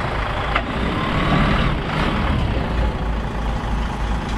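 Diesel engine of a container tractor-trailer running at low speed as the rig is slowly manoeuvred.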